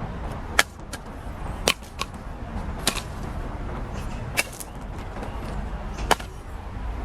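Wood fire crackling: about six sharp pops at irregular intervals over a low steady rumble.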